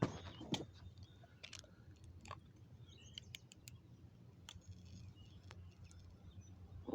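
Faint outdoor quiet: a few short bird chirps and scattered small clicks over a low steady hum.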